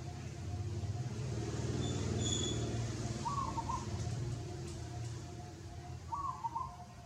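A motor vehicle's engine passing, its low hum swelling and then fading away, while a bird gives a short call about every three seconds and a high chirp sounds briefly.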